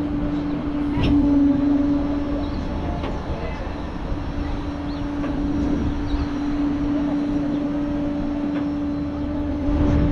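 A vehicle running steadily: a constant low droning hum over a low rumble, swelling slightly about a second in and again at the end.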